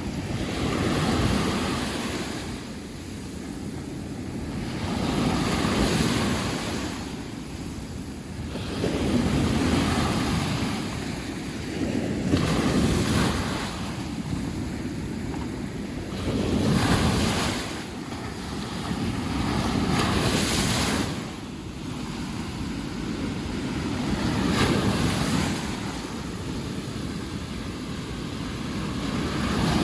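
Sea waves breaking and washing onto a beach, a new surge every four seconds or so, with wind rumbling on the microphone.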